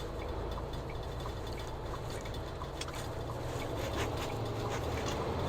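Vehicle engine running steadily with road noise while driving, a low even hum with a few faint scattered ticks.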